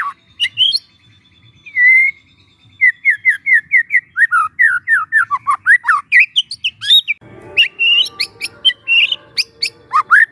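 Young white-rumped shama singing a varied run of clear whistles. The middle is a quick series of falling notes, about four a second, followed by fast rising whistles and sharp clicks. A raspy buzz runs under the song in the second half.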